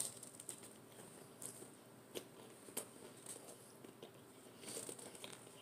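A person biting into and chewing a chicken quesadilla: faint, with scattered soft clicks of the mouth and food.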